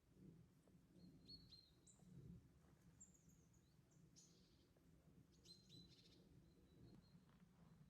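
Faint, scattered high chirps of small birds, short calls every second or so, with a cluster of them a little past the middle, over a low hush.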